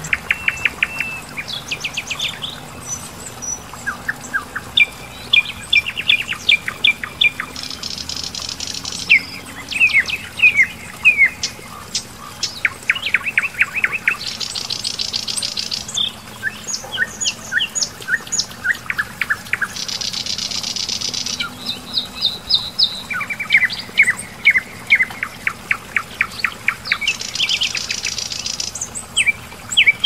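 Songbirds singing: quick runs of high chirping notes, with a buzzy trill that comes back about every six seconds.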